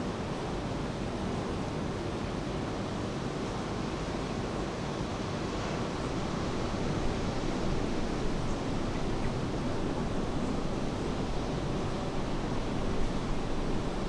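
Steady rain falling, mixed with the wash of ocean surf, getting a little louder about halfway through.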